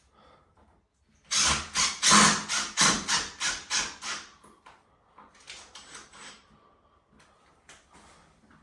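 A power tool working in a loud run of rapid, regular strokes, about five a second, for about three seconds, followed by a shorter, quieter run.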